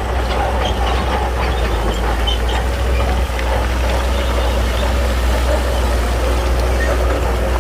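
Diesel engine of a Shantui crawler bulldozer running steadily, with a low rumble, a constant whine and scattered light rattles.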